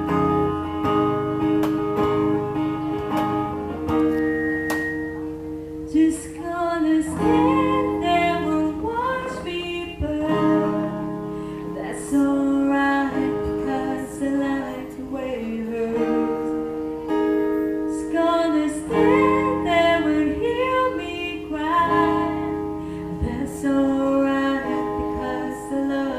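Acoustic guitar playing, with a voice singing over it from about six seconds in.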